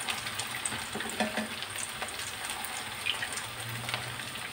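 Cauliflower patties shallow-frying in hot oil in a frying pan, a steady sizzle with many small crackles and pops, while they are turned with metal tongs.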